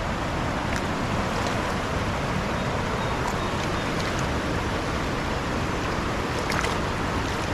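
Steady roar of a fast, flood-high river rushing past, an even wash of water noise with a few faint splashes or ticks.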